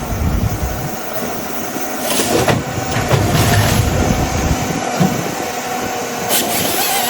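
Forestry harvester's engine running under load, with a few sharp cracks of wood about two, five and six and a half seconds in.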